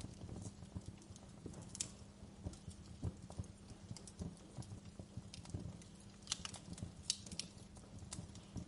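Wood fire in a fireplace crackling: a steady irregular patter of small pops and soft knocks, with a few sharper snaps about six to seven seconds in.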